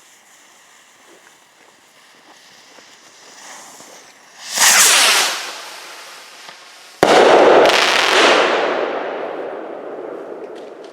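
Fireworks going off. A hiss swells into a loud burst about halfway through, then a sudden sharp bang comes about two-thirds of the way in and fades out slowly.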